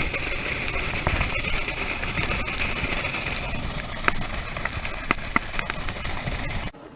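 Motorboat under way: engine and rushing wind and water noise, with a few sharp knocks in the second half. It cuts off abruptly near the end.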